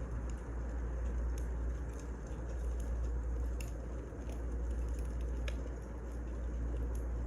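Wood fire crackling: a steady low rumble of burning with scattered sharp snaps and pops.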